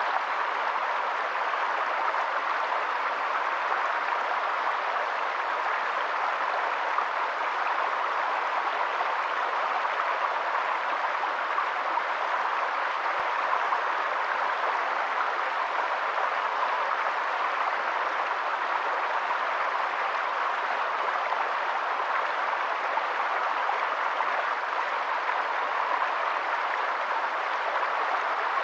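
Steady, unbroken rush of running water, even in level with no distinct drops or events.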